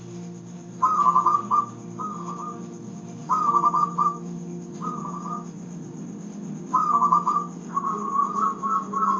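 Zebra dove (perkutut) cooing in short, rapid, trilled phrases, about five of them with gaps between, then running into one longer unbroken phrase near the end. Soft, steady low instrumental music runs underneath.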